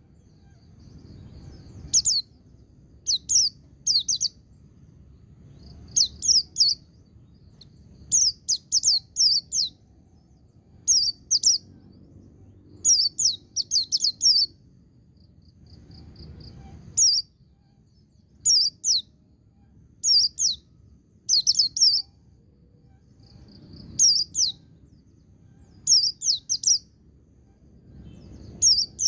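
White-eye (pleci) singing in short, sharp bursts of one to four high notes, the groups repeating every second or two in the 'ngalas' counted-beat style.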